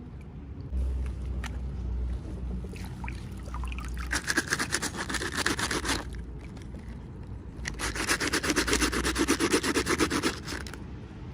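Rapid rubbing or scraping strokes in two bursts, the second longer and louder.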